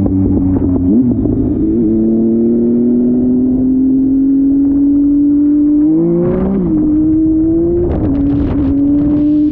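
Motorcycle engine held at high revs, its pitch climbing slowly for several seconds. The revs dip and pick up again twice, about six and eight seconds in.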